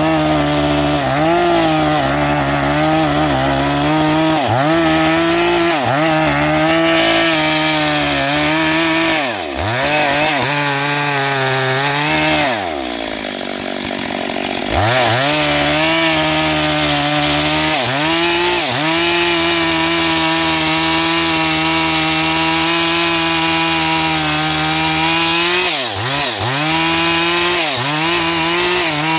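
Chainsaw running at high revs while cutting wood, its pitch repeatedly sagging and recovering as the chain bites. About twelve seconds in it drops to low revs for a couple of seconds, then revs back up and cuts on.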